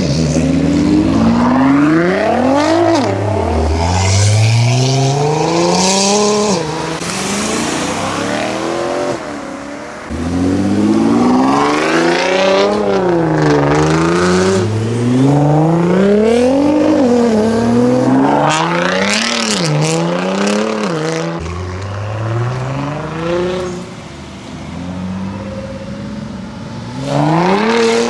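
High-performance car engines revving hard as the cars accelerate away one after another, the pitch climbing and dropping back repeatedly through gear changes. A fresh engine takes over about ten seconds in, again a little past twenty seconds, and once more near the end.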